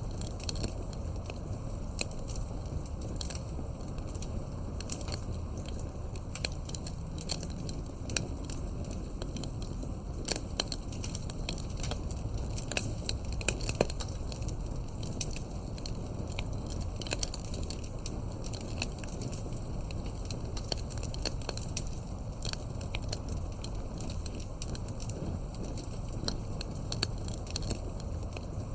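Campfire burning with a steady low rumble and frequent irregular crackles and pops of the burning wood, a few louder pops about halfway through.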